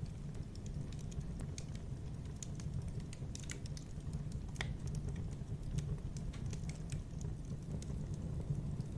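Wood fire crackling in a fireplace: irregular small pops and snaps, one sharper pop about halfway through, over a steady low rumble.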